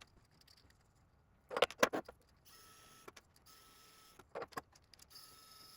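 A few sharp clicks of small parts and tools being handled, then a small motor whirring faintly in short spells, stopping and starting three or four times, as screws are backed out.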